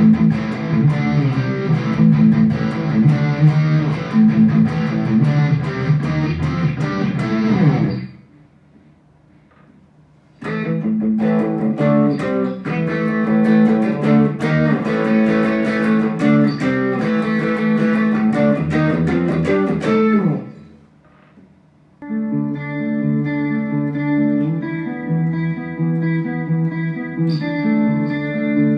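Electric guitar played through a Mooer GE100Pro multi-effects processor. Three short passages are separated by two brief pauses, as the unit steps from one preset sound to the next.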